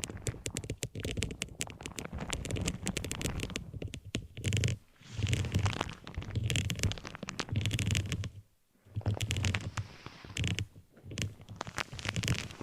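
Close-miked scratching and crackling on an object, with dense clicks throughout. From about four seconds in, low rubbing swells come roughly once a second, with a short pause a little past the middle.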